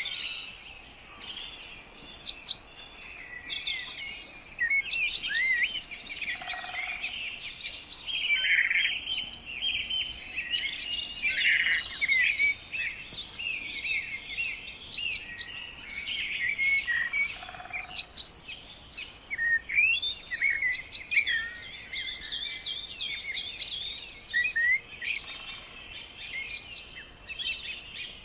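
A chorus of many wild birds singing and chirping at once, with short quick notes and twittering overlapping continuously and no pause.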